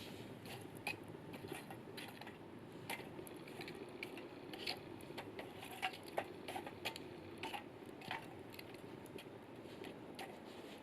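Wood fire crackling in a fire-pit grill: irregular snaps and pops over a low steady rush.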